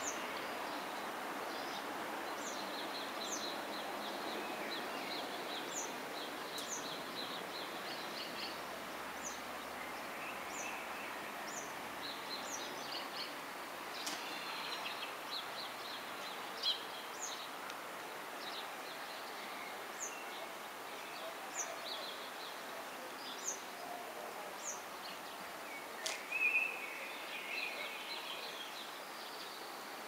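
Short, high chirps of small birds, scattered one or a few at a time over a steady hiss of outdoor background noise, with a louder burst of calls near the end.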